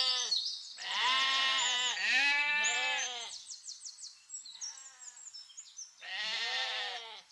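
A goat bleating over and over, each bleat about a second long and rising then falling in pitch. There are four loud bleats, with a fainter one near the middle.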